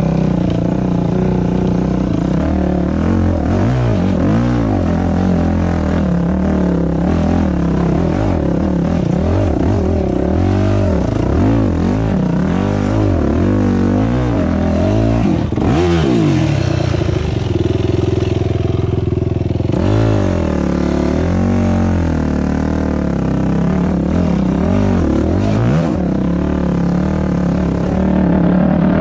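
Dirt bike engine running under load on a trail, its pitch rising and falling over and over with the throttle and gear changes, holding steadier for a few seconds past the middle.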